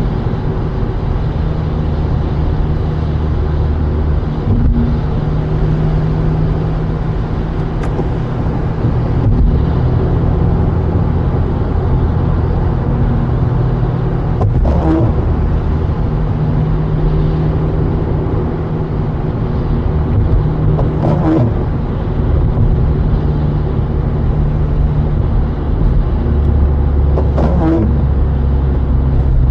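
Car driving on wet city streets: steady engine and road noise. A short sound recurs about every six seconds.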